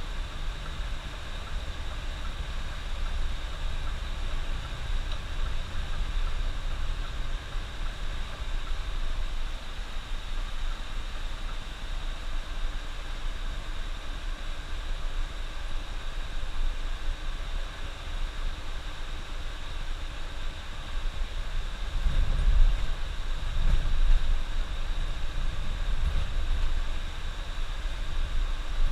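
Steady driving noise heard from inside a moving coach: low engine and road rumble under a continuous hiss. The rumble swells for a couple of seconds about three-quarters of the way through.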